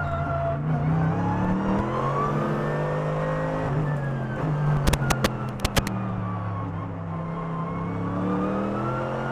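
Mercedes-AMG GT3 race car's 6.2-litre naturally aspirated V8 under power, heard from the cockpit. Its pitch climbs and drops repeatedly as it shifts through the gears. A quick cluster of sharp clicks comes about five seconds in.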